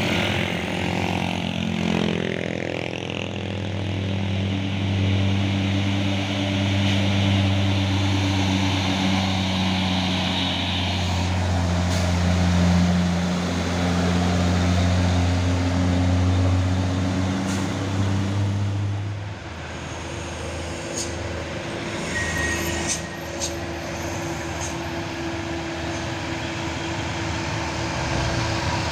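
Heavy truck engine labouring steadily up a steep grade close by, its deep engine note cutting away about two-thirds of the way through, leaving a lighter engine hum and a few sharp clicks.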